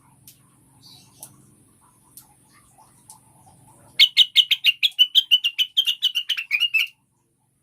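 Female blue-winged leafbird (cucak wilis) calling: about four seconds in, a fast run of roughly twenty sharp chirps, about seven a second, dipping slightly in pitch at the close. Before it there is only a faint low hum and a few scattered faint chirps.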